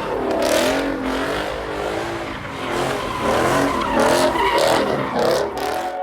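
Vehicle engines revving with tyre squeal, pitch wavering up and down, cut off suddenly at the end.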